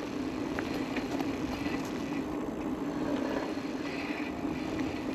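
Aventon Level 2 e-bike rolling along, heard from the rider's position: a steady low hum over road and wind noise, with a few light clicks.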